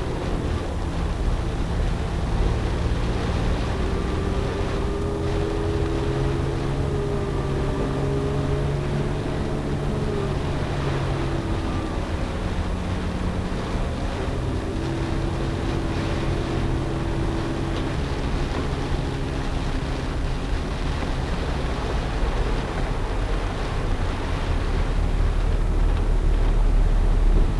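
Vehicle engine running while driving on a rain-flooded road, with a steady rush of water and tyre noise. The engine note rises and falls a little.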